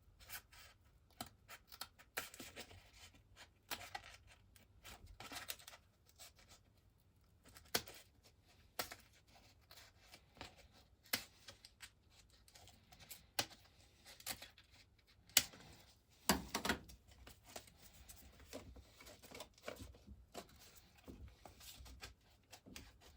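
Scissors snipping the edge of a thin cardboard gasket cut from cereal-box card, trimming it to fit: a run of small, irregular snips and scrapes.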